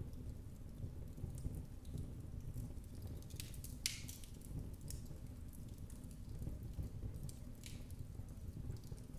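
Wood fire in a fireplace crackling: scattered sharp pops and snaps, one louder pop about four seconds in, over a steady low rumble of the flames.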